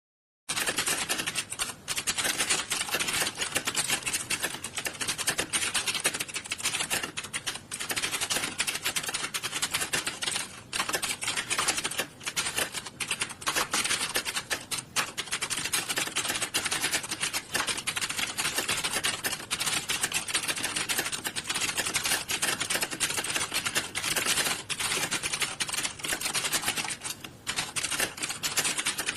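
Many computer keyboards being typed on at once: a dense, continuous clatter of key clicks with a few brief lulls.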